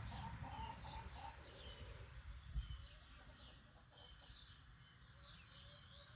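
The tail of a rooster's crow, ending about a second in, over small birds chirping repeatedly. A brief low thump comes about two and a half seconds in.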